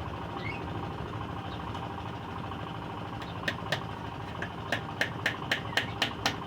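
Steady low hum, then from about halfway through a run of rapid, evenly spaced knocks on wood, about four a second, the kind made while working scrap wood into a nest box.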